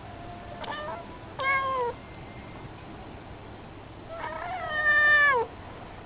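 A calico cat meowing: a faint murmur and then a short falling meow in the first two seconds, then a longer, louder meow around four seconds in that drops in pitch at its end.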